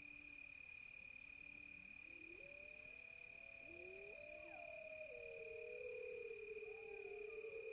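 Several wolves howling in chorus: long overlapping calls that rise and fall, growing fuller from about two seconds in. Behind them runs a steady high cricket trill.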